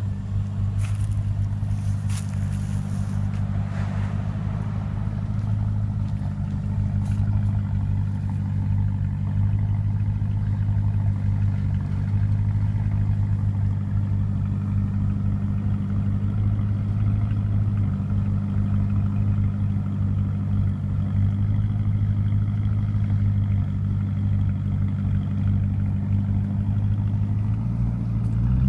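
Volvo XC90's B8444S 4.4-litre V8 idling steadily through an aftermarket Corsa DB exhaust with quad tips, a low, even exhaust note.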